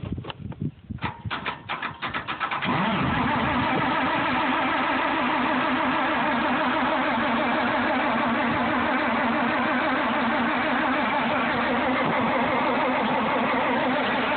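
Farmall 460 tractor's six-cylinder engine being cranked by the starter, a quick rhythmic chugging for about two and a half seconds, then catching and settling into a steady run. It is a restart straight after the engine stalled.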